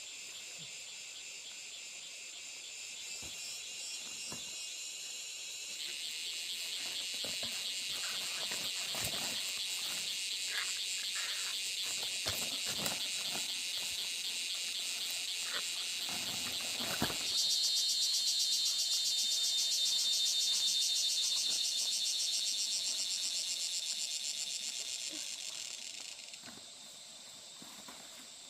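A loud chorus of insects trilling with a fast, even pulse. It swells twice and fades near the end. Scattered knocks and rustles sound under it for about the middle third.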